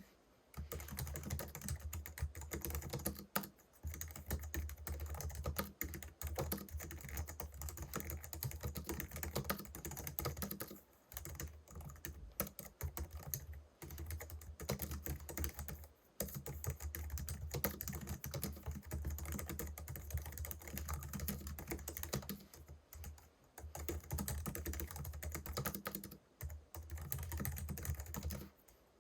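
Continuous fast typing on a Logitech MX Keys Mini, a low-profile scissor-switch (pantograph) wireless keyboard: a dense run of soft key clicks, broken by a few brief pauses.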